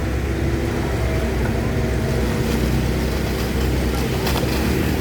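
Hydraulic excavator's diesel engine running steadily under load as it digs river mud, with a short clank about four seconds in.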